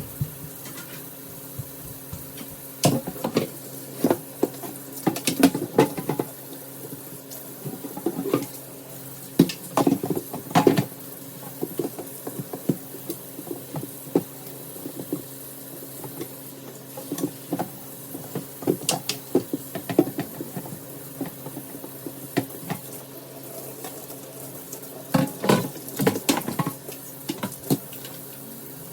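Dishes being washed at a kitchen sink: crockery and utensils knocking and clinking in irregular clusters, over a steady low hum.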